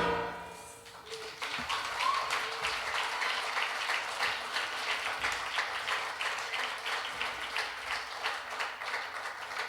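The last piano chord of a song dies away, and about a second in an audience starts applauding steadily.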